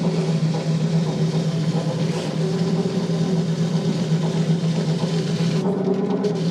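Shoe polishing machine running with a steady motor hum while boots are polished on it; the upper hiss thins out about five and a half seconds in.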